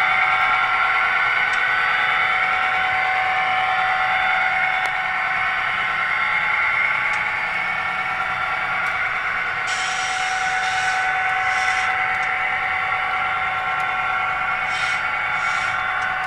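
HO-scale model train running on the layout: a steady sound of several held tones, with short hissy patches about ten seconds in and again near the end.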